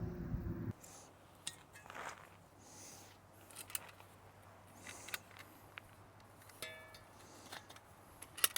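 Wind rumble on the microphone cuts off under a second in. After that come faint, scattered clicks, taps and rustles of small objects being handled, with one sharper click near the end.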